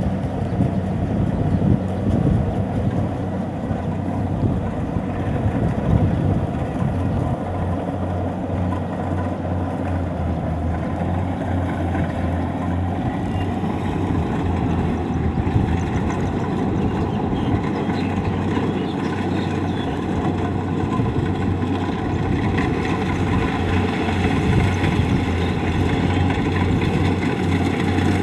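Kubota DC-70 combine harvester's diesel engine and machinery running steadily, a constant low drone.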